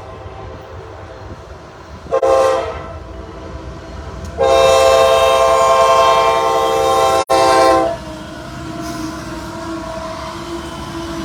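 CSX freight locomotive's multi-note air horn sounding a short blast, then a long one of about three and a half seconds, the end of the grade-crossing signal. After the horn stops, the loaded coal train runs on past with a steady rail rumble.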